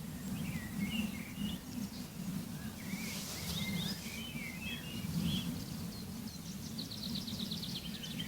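Several songbirds chirping, with quick trills and short twittering calls throughout, busiest near the start and again near the end, over a low steady rumble.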